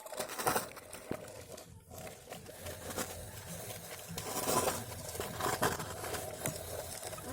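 Irregular rustling, crinkling and scraping noises with scattered clicks.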